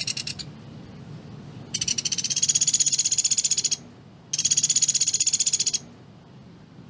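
Pelatuk beras, a small woodpecker kept as a songbird, giving its rapid-fire trills: a brief burst at the start, then two long trills of tightly packed high notes, the first about two seconds and the second about a second and a half. This dense rapid-fire calling is the quality keepers prize it for as a song tutor.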